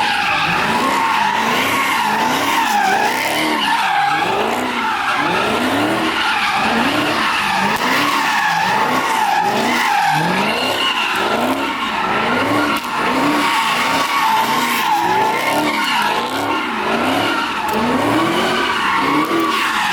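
Car engine revved hard over and over, its pitch swinging up and down a little more than once a second, with the tyres squealing without a break, as in a burnout or donuts.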